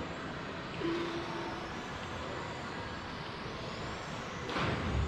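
Electric RC racing cars running around a track: a steady whir of motors and gears, with high whines rising in pitch as cars accelerate. A short steady tone sounds about a second in, and there is a brief louder rush near the end.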